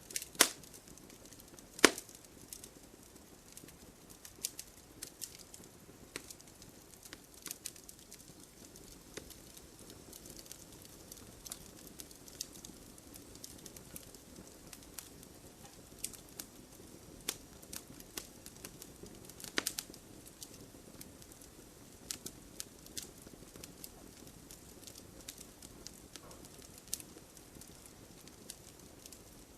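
Wood fire crackling in a fireplace: irregular sharp pops and snaps over a soft steady hiss of the flames. A few louder pops come near the start and about two-thirds of the way through.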